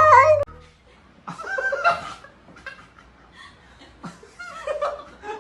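A cat's drawn-out, rising yowl that cuts off abruptly about half a second in, followed by a person's soft, broken laughter.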